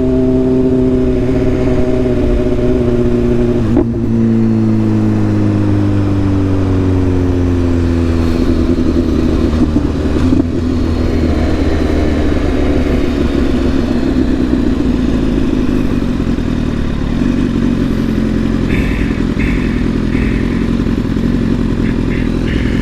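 Sport motorcycle engine heard from the rider's bike, its revs falling steadily over the first several seconds as the bike slows, then running steadily at low revs.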